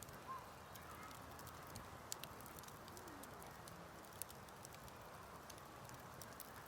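Wood fire burning quietly, with scattered sharp crackles and pops over a soft steady hiss; the loudest pops come about two and four seconds in.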